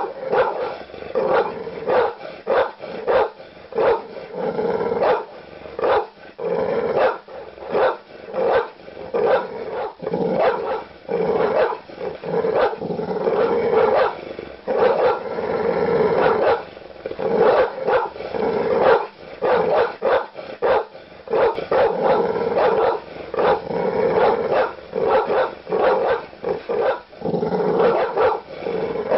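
Large dogs barking aggressively in quick, overlapping deep barks, several a second, without a break, with growling between barks.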